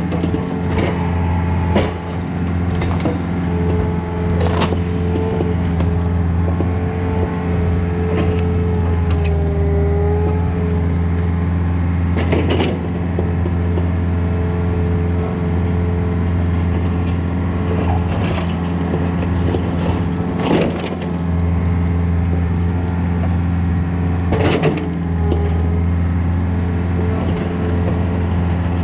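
Takeuchi TB153FR mini excavator running steadily while digging, with a wavering whine that rises and falls and a handful of sharp knocks and scrapes from the bucket.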